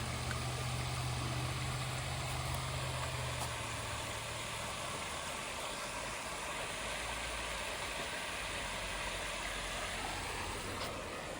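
Steady rush of creek water, with a low motor hum that fades out about four seconds in.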